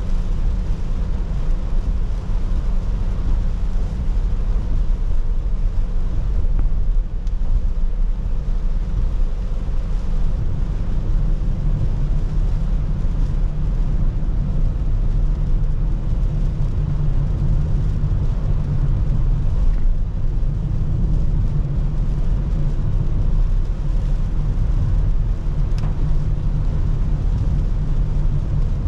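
Car driving in the rain, heard from inside the cabin: a steady low rumble of engine and road noise.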